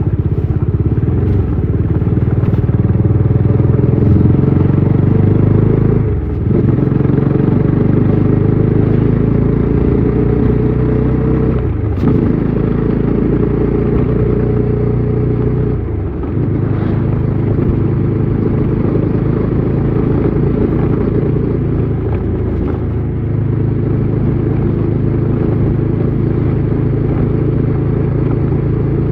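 Bajaj Dominar 400's single-cylinder engine and exhaust running under way on the road, a steady engine note that dips briefly in level and pitch four times.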